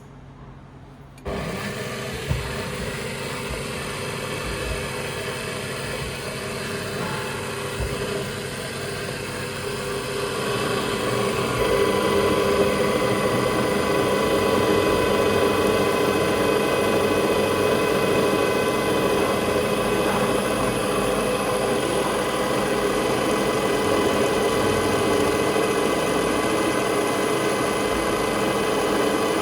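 An electric power tool switches on about a second in and runs steadily with a constant whine, getting louder from about ten seconds in.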